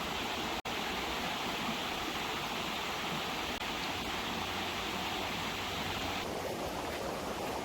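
Steady rushing of heavy rain and running water. It drops out for a split second under a second in, and the sound turns duller from about six seconds in.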